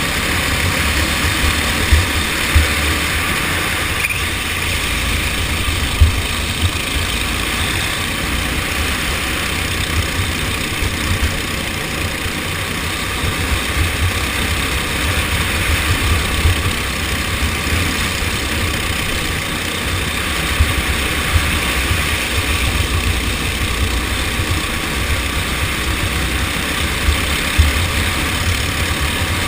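Racing kart engine running steadily through a race, with a heavy low rumble underneath and occasional brief louder peaks.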